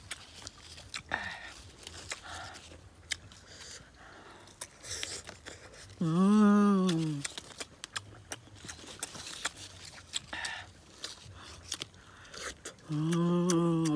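Close-up crunching and chewing of raw young green jackfruit, with many sharp bites and mouth clicks. Twice, about six seconds in and near the end, a man makes a drawn-out voiced sound whose pitch rises then falls.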